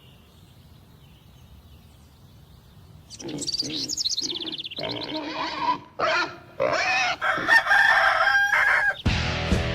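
A faint hum, then from about three seconds in several loud animal calls in a row, each bending in pitch. Music starts just before the end.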